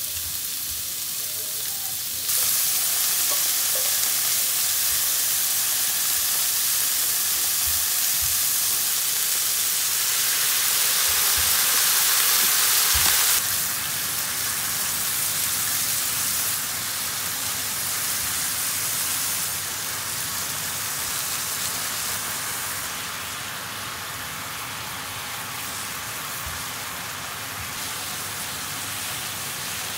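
Pork and vegetables sizzling in oil in a frying pan while yakisoba is being made, a steady hiss. It turns suddenly louder a couple of seconds in and drops back partway through, with a few faint knocks of food and utensils against the pan.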